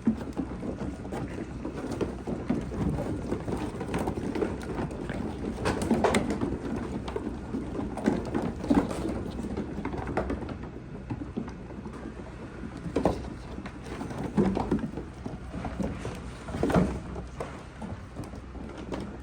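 Goats eating a dry feed mix of oatmeal and corn: irregular crunching, clicks and knocks.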